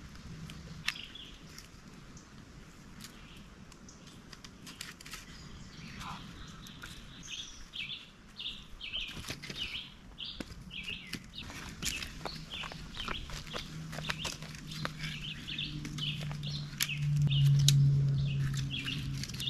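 A bird chirping, short high notes repeated two or three times a second, over scattered clicks and knocks of dry sticks being handled. A low steady hum builds up and becomes the loudest sound near the end.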